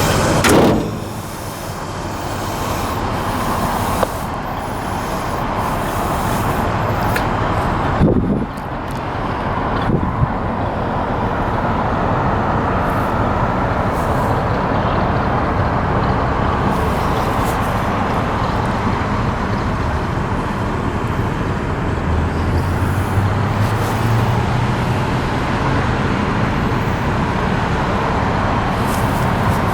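A 1966 Chevy C-10 pickup with a 350 V8 running under way, engine and road noise together. The loudness dips sharply and builds again about half a second in and again about eight seconds in.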